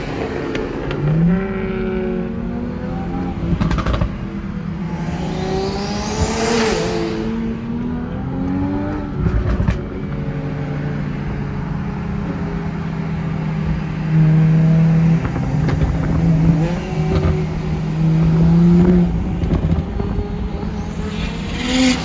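High-boost turbocharged car engines pulling hard, their pitch sliding up and down through the gears. A high rising turbo whistle sweeps up about five seconds in and again near the end.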